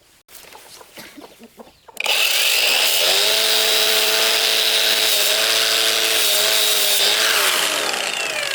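Electric power tool switched on about two seconds in, running steadily with a high whine over a rushing noise, then easing off and winding down near the end.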